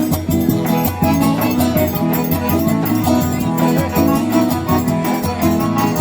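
Instrumental forró music in arrasta-pé style, with sustained organ-like chords over a steady, even percussion beat and no singing.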